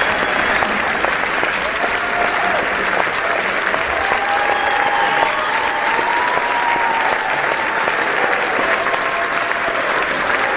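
Crowd applauding steadily, dense continuous clapping.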